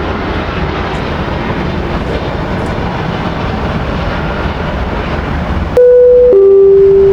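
Steady engine noise from a nearby airliner, cut about two-thirds of the way through by a louder two-note tone that steps down from a higher note to a lower held note.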